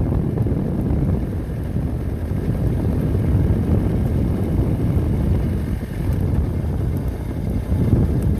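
Steady rush of wind on the microphone with motorcycle engine and road noise, riding at speed.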